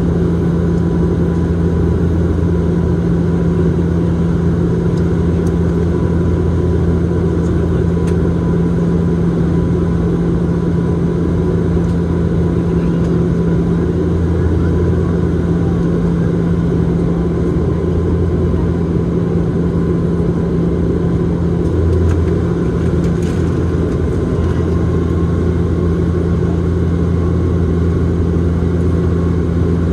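Bombardier Dash 8-Q400 turboprop heard inside the passenger cabin: a steady propeller and engine drone with two constant low hums over airflow noise.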